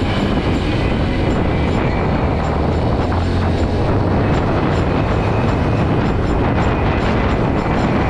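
A motorcycle riding along, with a steady engine hum and road noise.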